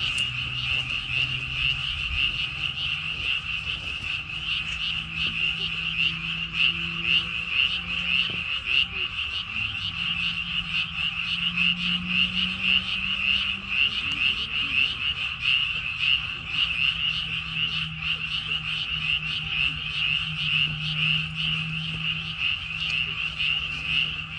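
Chorus of many frogs calling at once: a dense, fast-pulsing high-pitched croaking, with a faint low hum underneath.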